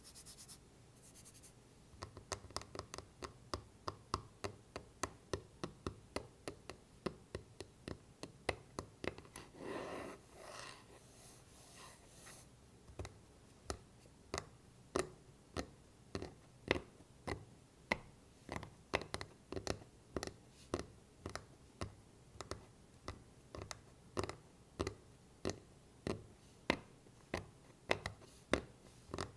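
Tapping on a wooden block, a steady run of sharp taps at about two to three a second. About ten seconds in, the tapping gives way for a couple of seconds to scratching on the wood.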